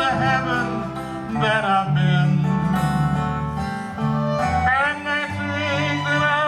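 Acoustic country-western band music with a guitar, bass notes and sustained melody notes wavering in vibrato.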